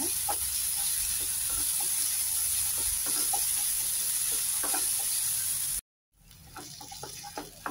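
Onion, tomato and ginger-garlic paste frying in oil in a non-stick kadai, with a steady sizzle. A wooden spatula stirs and scrapes through it with light taps, frying the paste until its raw smell goes. Near the end the sound cuts out for a moment and comes back quieter, with more separate spatula clicks.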